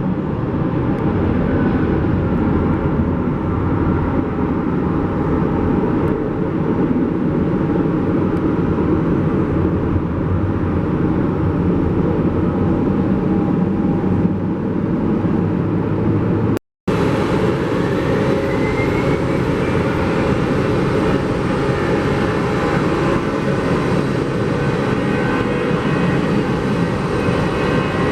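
Jet airliner engines running with a steady, dense noise. The sound cuts out completely for a moment about two-thirds of the way through, then resumes with a faint rising whine.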